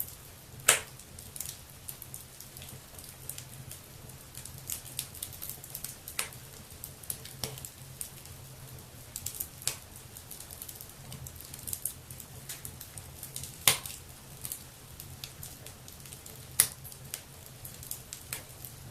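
Wood fire crackling in a fireplace: a steady scatter of small ticks and snaps, with three sharp louder pops, one about a second in and two near the end, over a low steady hum.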